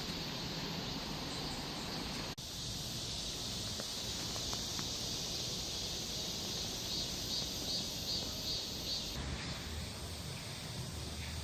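Cicadas buzzing steadily, with a pulsing call of about three or four beats a second for a couple of seconds past the middle. The sound drops out for an instant about two seconds in.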